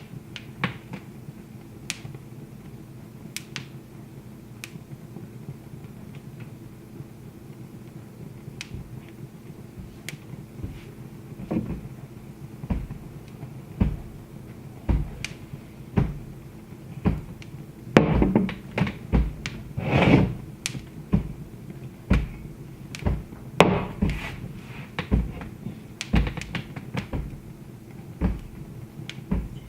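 Wood fire crackling: scattered sharp pops and snaps over a low steady hum. The pops become louder and more frequent about a third of the way in.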